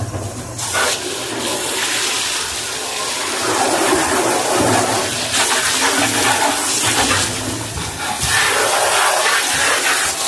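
Water rushing and sloshing in a washing machine being cleaned, surging and easing several times.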